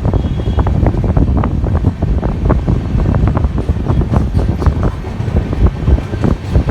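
Wind buffeting the microphone over the low rumble of a moving train, with irregular gusts throughout.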